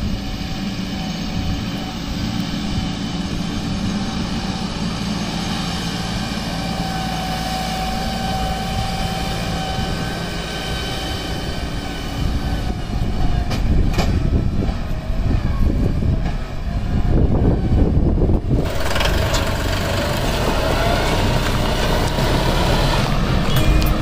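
Force Sanman 6000 tractor's three-cylinder diesel engine running steadily. It gets louder about halfway through.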